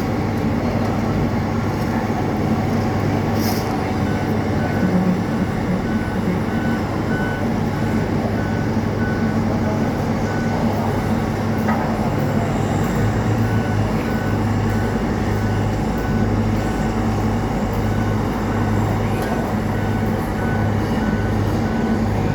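Truck engine running steadily. From a few seconds in, a short electronic beep repeats about twice a second over it.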